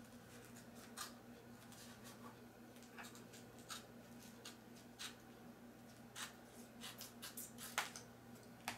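Scissors snipping the folded backing paper of a self-adhesive insignia: soft, irregular clicks and snips, the loudest near the end, over a steady low hum.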